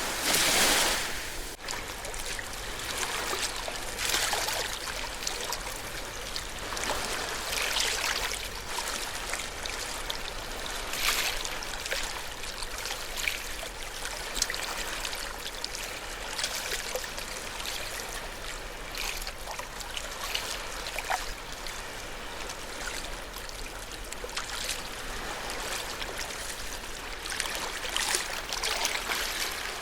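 Ocean waves washing onto a shore: a larger wash in the first second or so, then smaller surges every few seconds, with trickling, fizzing water between them.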